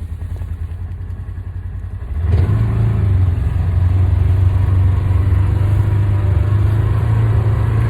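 Polaris Ranger 4-wheel-drive utility vehicle's engine idling with a low pulse, then throttled up about two seconds in and running steadily louder as the vehicle backs down the hill for a running start.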